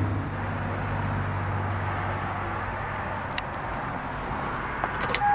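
1999 Toyota Sienna's 3.0-litre V6 idling with a steady low hum that fades out about three seconds in, over an even outdoor background noise, with a few faint clicks near the end.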